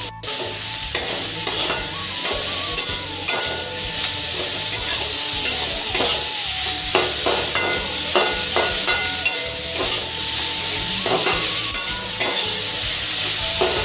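Sliced onions and chillies sizzling in hot oil in a steel kadhai while a metal spatula stirs and scrapes the pan, about two scrapes a second over a steady frying hiss.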